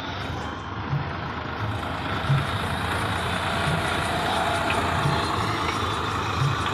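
Swaraj 855 tractor's three-cylinder diesel engine running, a steady dense rumble with a low thump recurring about every second and a half.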